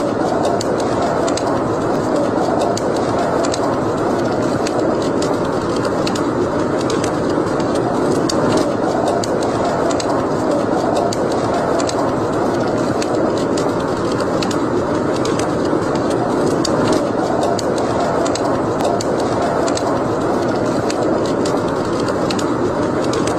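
Wood fire burning in a fireplace: a steady roar of flame with many small, sharp crackles and pops throughout.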